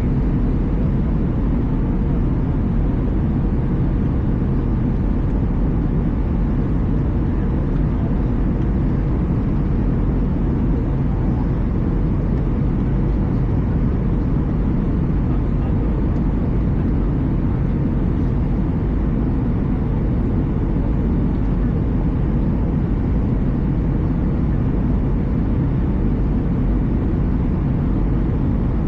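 Steady cabin noise inside an Airbus A320 in flight: a constant low rumble of the engines and the airflow past the fuselage, unchanging throughout.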